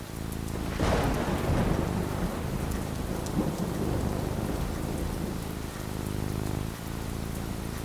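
Steady rain falling, with a crack of thunder about a second in that rolls off into a low rumble over the next few seconds.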